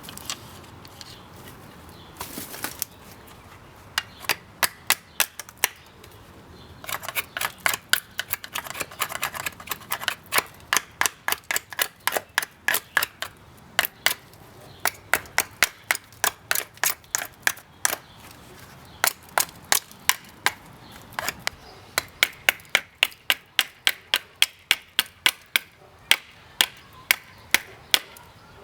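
A railroad-spike knife chopping into a maple hammer-handle blank: short runs of sharp cutting strokes, about two to three a second, with brief pauses between runs.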